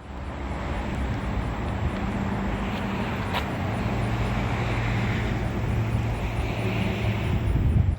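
A car driving, with steady road and engine noise that grows a little louder toward the end and then cuts off suddenly.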